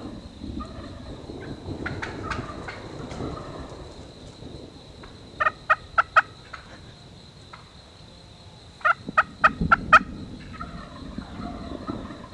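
Wild turkey yelps: a series of four sharp, evenly spaced notes about five seconds in, then a second series of five or six about nine seconds in. Fainter turkey calling and a low rumble sit underneath.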